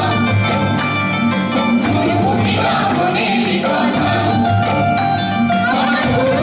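Folk song performed with singing over instrumental accompaniment and a steady rhythmic pulse.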